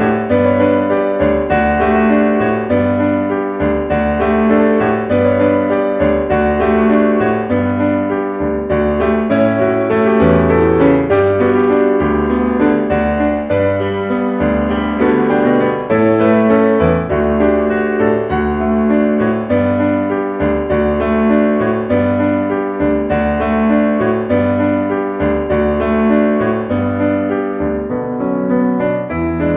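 Background piano music with a steady bass rhythm and a moving melody.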